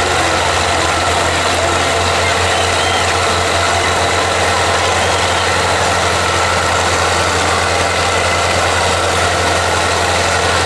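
Belarus 510 tractor's diesel engine running steadily at a constant speed, a loud low hum with no revving.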